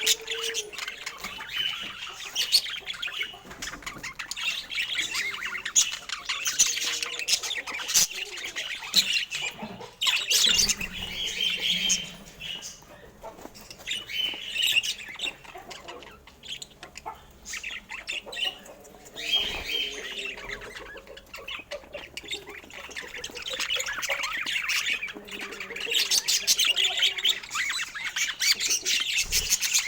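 Budgerigars chattering: a busy stream of short chirps, squawks and warbles, easing off for a while about halfway through before picking up again.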